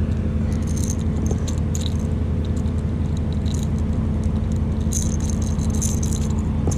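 A lipless crankbait's internal rattles and treble hooks clattering in short bursts as the hooked bass shakes, about a second in and again around five seconds in. Under it runs a steady low wind rumble.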